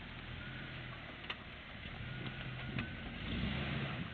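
Jeep engine running steadily at low revs under a steady hiss, with a couple of sharp clicks.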